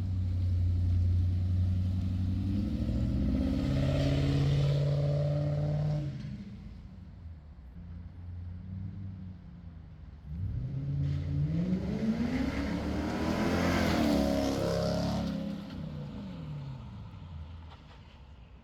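Lexus GS 400's V8 running through a newly fitted aftermarket exhaust. It rises in pitch a few seconds in and drops back, then makes a longer climb that peaks about fourteen seconds in and falls away.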